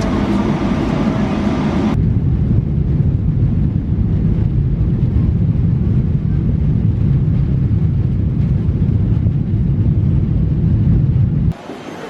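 Steady low rumble of a vehicle in motion. About two seconds in it cuts abruptly to a duller, deeper rumble that runs until a sudden drop near the end.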